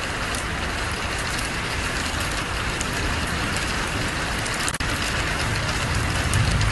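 Heavy rain falling and pattering steadily on surfaces, an even hiss, with a low rumble growing stronger near the end.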